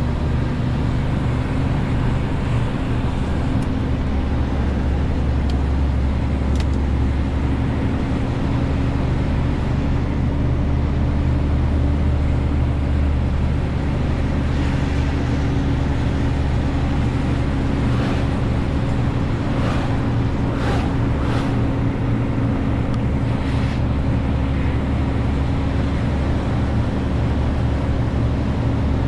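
Renault T520 truck's six-cylinder diesel engine running steadily under a 40-tonne load, a deep, even drone with road noise. A few short ticks come in the second half.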